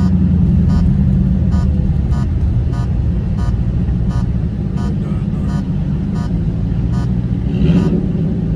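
Car engine running steadily with a low rumble, with a regular light tick about two to three times a second and a brief louder sound near the end.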